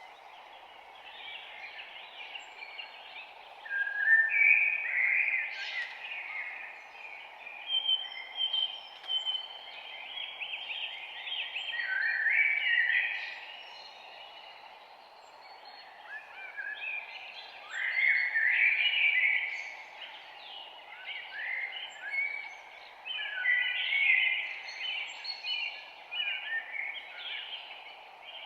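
Several songbirds singing and chirping over one another, with phrases coming and going throughout, over a steady faint rushing noise underneath.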